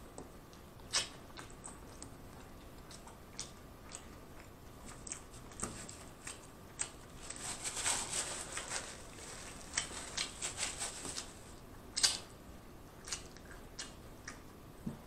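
Close-miked chewing of a soft stacked Big Mac: wet mouth smacks and small clicks, busiest about halfway through, with a sharper click about a second in and another about three-quarters of the way through.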